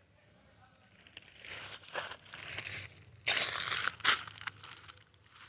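Dry rustling and crunching in a run of uneven bursts, loudest for about a second near the three-second mark.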